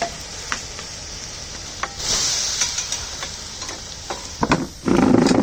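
Bonfire embers hissing and sizzling as water is poured on them to put the fire out, with scattered crackling pops. The hiss grows louder about two seconds in, and a loud splashing rush comes near the end.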